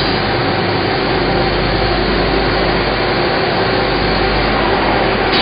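Loud, steady machinery noise of CNC machines running, with a low hum and several faint steady tones. A short hiss comes right at the end.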